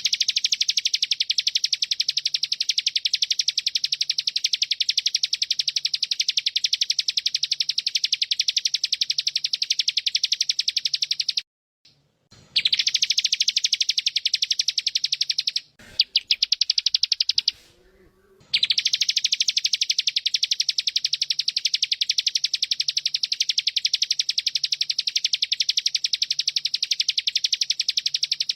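Bren cicada buzzing: a loud, very rapid, even, high-pitched pulsing held for many seconds at a time, broken by two short gaps around the middle.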